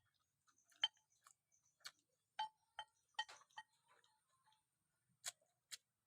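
Faint, irregular light clicks and clinks of small hard objects, about a dozen taps spaced unevenly, each with a brief ringing note.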